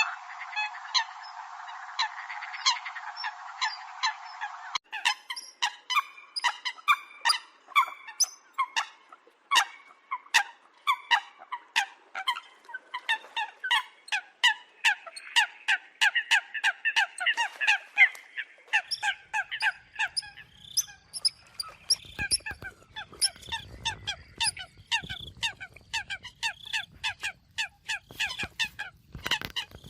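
Eurasian coots calling: a dense, rapid run of short, sharp honking notes from several birds, one after another without pause. About five seconds in, the sound changes to a fuller, clearer recording, and a low rumble joins under the calls in the last third.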